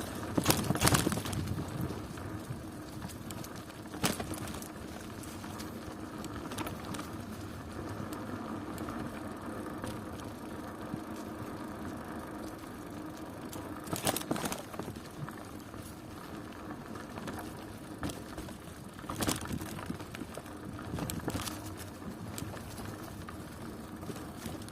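A bicycle being ridden: steady tyre-on-road and drivetrain noise, with a sharp knock or rattle every several seconds, the loudest right at the start.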